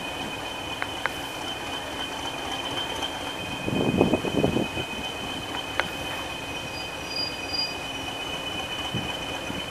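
Diesel train sounding with a steady high-pitched squeal made of two close tones, a brief louder rumble about four seconds in, and a few sharp clicks.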